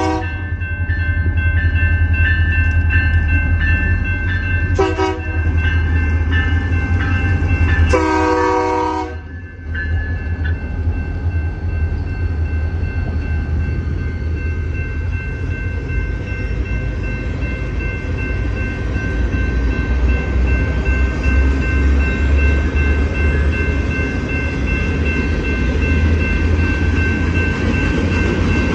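Diesel freight locomotive's air horn: the tail of a blast at the start, a short blast about five seconds in and a longer one about eight seconds in, over the locomotive's low diesel rumble. After the horn the train keeps rolling through with a steady rumble, while grade-crossing bells ring steadily throughout.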